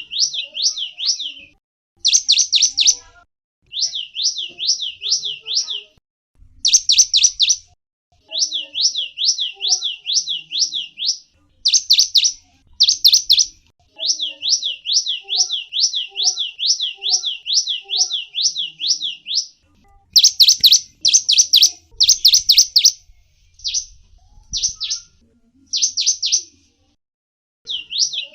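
A small songbird, the gelatik wingko, singing in quick runs of high down-slurred chirps, about five a second, broken into phrases with short pauses between them; a few sharper, louder notes come about two-thirds of the way in.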